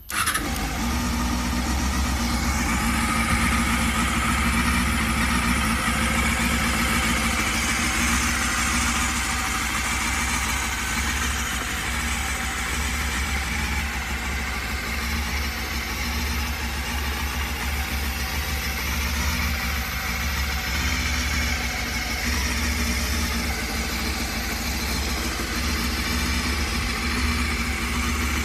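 Honda Hornet 250's four-cylinder engine idling steadily through its exhaust, an even running note with no big revs.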